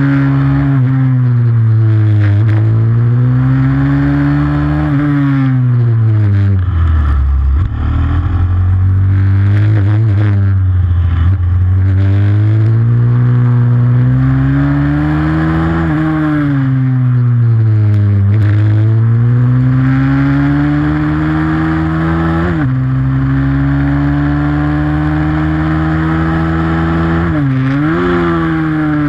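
Pit bike engine racing around a track, its revs climbing and falling over and over as it accelerates and slows, with two quick sharp dips in pitch near the end.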